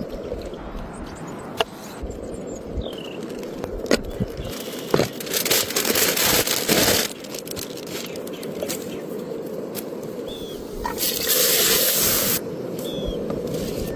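Campfire cooking sounds: scattered crackling clicks over a steady rush, with two loud stretches of hissing, the first about four seconds in and the second near the end, each cutting off sharply. A few short chirps come through.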